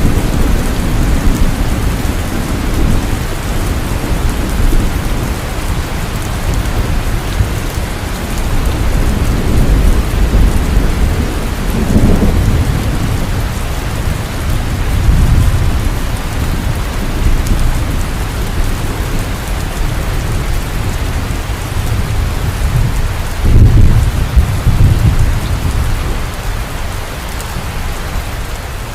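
Heavy rain falling steadily with rolling thunder rumbling underneath, the rumbles swelling several times and loudest near the end.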